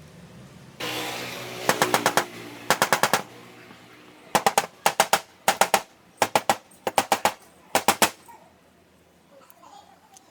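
Rapid knocking in seven short bursts, each of about five sharp strikes. A steady hiss begins just before the first bursts and fades after the second.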